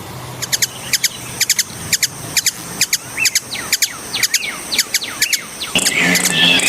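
Hummingbird giving a rapid series of short, high-pitched chip notes, about two or three a second. Near the end the chips stop and a low hum with a brief squeaky twitter takes over.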